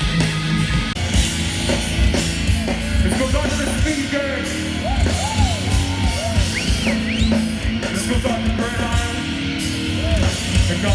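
Live hardcore punk band playing loud: distorted electric guitars and drums, with yelled vocals.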